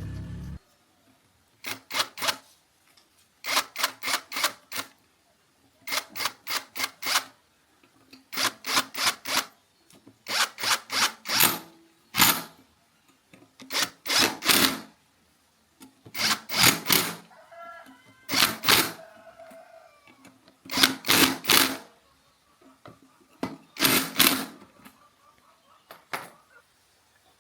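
Sharp knocks in quick bursts of three to five, repeated about every two seconds, like a tool tapping hard on a part. A steady mechanical hum cuts off just at the start.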